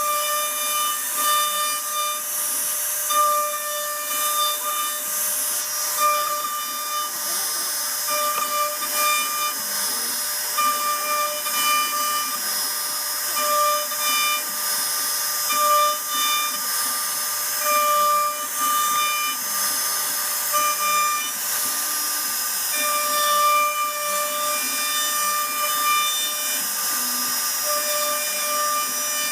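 CNC router cutting a wood panel: a steady high hiss with a whining tone that comes and goes in short stretches as the cutter moves.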